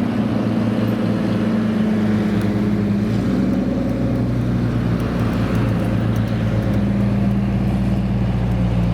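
Car engine idling steadily at a low, even pitch, its note shifting slightly about three seconds in.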